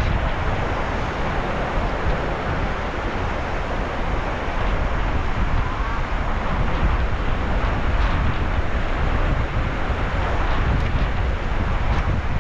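Sea surf washing steadily, with wind buffeting the microphone in a deep rumble.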